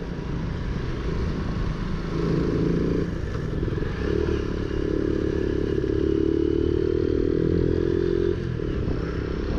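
Motorcycle engine that keeps cutting out, running again: a short burst about two seconds in, then a steadier run from about four seconds that stops about eight seconds in.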